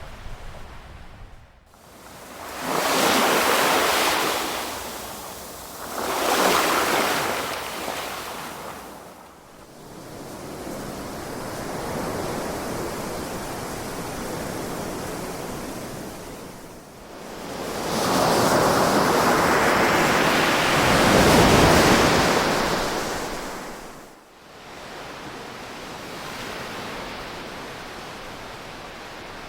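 Ocean waves breaking and washing in repeated surges. Two waves break close together a few seconds in, a softer wash follows, and a longer, louder wave swells and breaks past the middle before dropping away.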